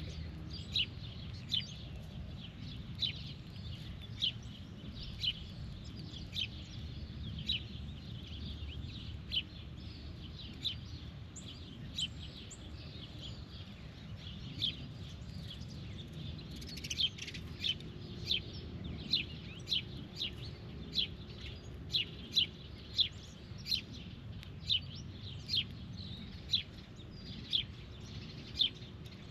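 A bird giving a long series of short, sharp chip calls, about one a second, coming faster and louder in the second half, over a low steady background rumble.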